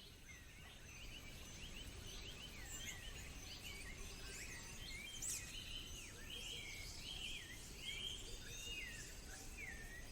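Faint forest ambience of birds calling: scattered short chirps, then a run of repeated swooping notes in the second half, over a soft low background hiss.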